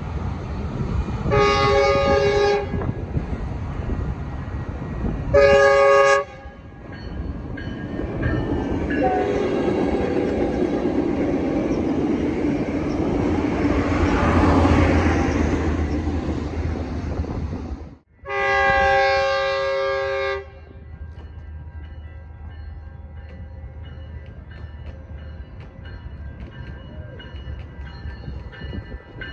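Metrolink commuter train sounding its multi-tone diesel horn in two blasts as it approaches, then rumbling past with engine and wheels on the rails, loudest as the locomotive goes by. A second train then gives one long horn blast as it nears a station platform, followed by the quieter sound of its approach.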